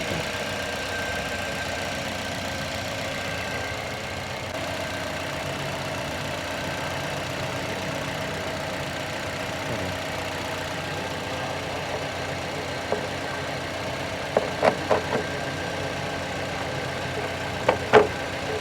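Toyota Corolla GLi engine idling steadily, its tappets freshly adjusted to cure a noisy engine. A few short sharp clicks near the end.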